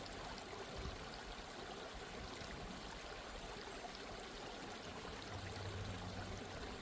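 Steady flowing water of a stream, an even rushing without breaks; a faint low hum joins it about five seconds in.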